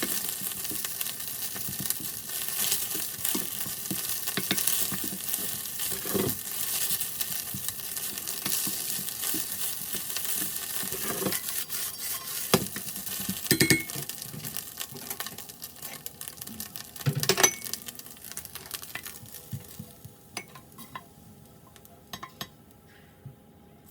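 Egg fried rice sizzling in an iron pan while a spatula stirs and scrapes it, with sharp metal clacks, sped up to double speed. The frying dies down in the last few seconds, leaving only occasional light clinks.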